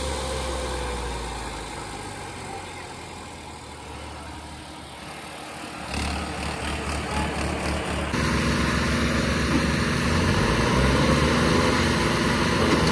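Tractor diesel engine running, dying down over the first few seconds, then picking up sharply about six seconds in and running louder and steadier from about eight seconds, as if the tractor is put under load.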